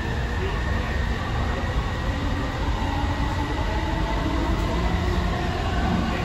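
AirTrain JFK car (Bombardier ART Mark II, linear-induction driven) running along its guideway, heard from inside the car: a steady low rumble of wheels on track with a faint high whine above it.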